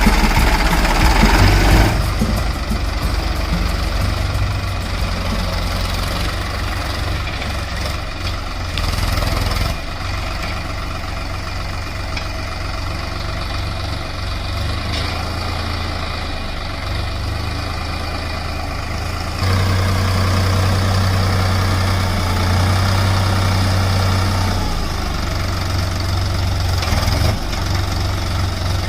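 Heavy diesel engine running steadily at a low pitch, quieter after the first couple of seconds and stepping up in loudness about two-thirds of the way through.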